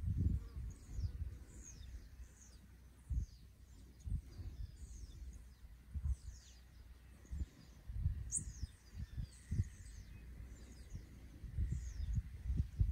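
Birds chirping over and over in short falling calls, over irregular low thumps and rumbles.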